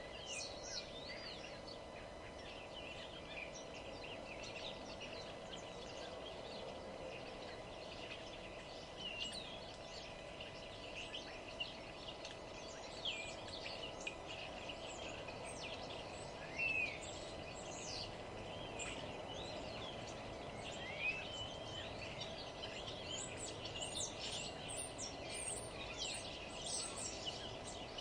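Several songbirds chirping and singing in overlapping short calls and quick rising and falling notes, growing busier near the end, over a steady low background noise.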